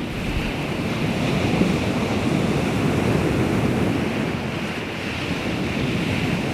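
Baltic Sea waves washing in steadily, with wind buffeting the microphone.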